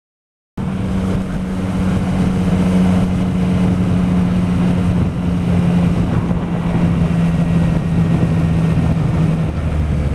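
Yamaha MT-09's three-cylinder engine running at a steady pace on the move, with road and wind noise. It cuts in suddenly after half a second of dead silence, and the engine note drops slightly near the end.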